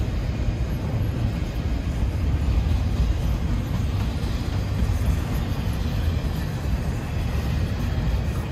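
Freight train rolling past: a steady low rumble of cars on the rails.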